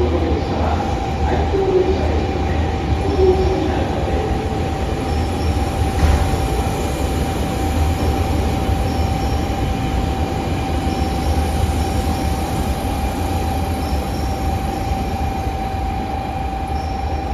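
A train running through the station: a steady low rumble and rolling noise with one constant high whine held throughout.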